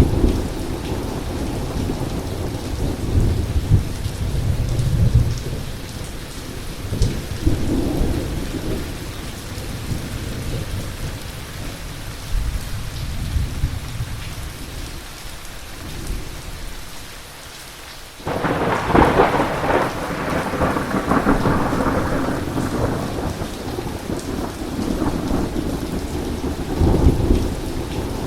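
Thunderstorm with heavy rain falling steadily. Low rolling thunder in the first several seconds fades away, then a sudden loud thunderclap breaks about two-thirds of the way through and rumbles on.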